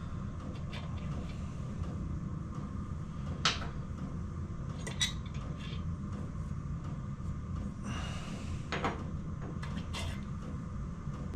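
A few light metallic clinks and clicks of small engine parts being handled and set down, over a steady low hum.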